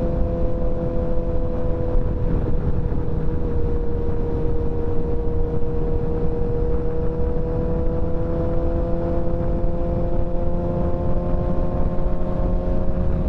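Motorcycle engine running at a steady cruise under a constant low rumble, its tone drifting slightly higher over the last few seconds.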